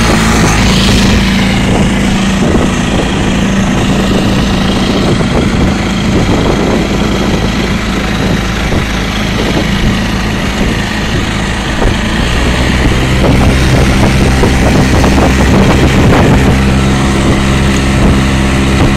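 Small 4 hp outboard motor running steadily on a canoe. Its note changes slightly about two-thirds of the way in.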